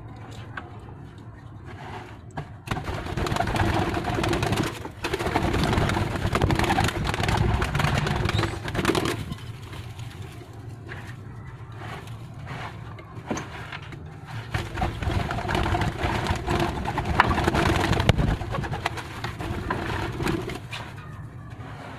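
Scraping and brushing while cleaning out a bird shed, in two long rough stretches of several seconds each with a few knocks in the quieter gap between them.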